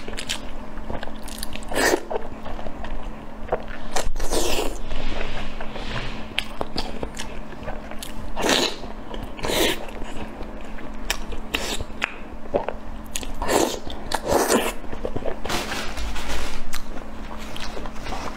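Close-miked chewing and biting of a soft, meat-stuffed food, with a louder wet bite or mouth sound every few seconds.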